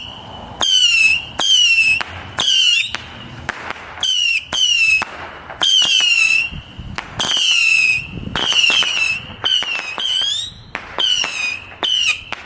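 Whistling fireworks going off in a rapid volley: a dozen or more loud, shrill whistles, each dropping in pitch and lasting under a second, about one a second, with sharp pops between them.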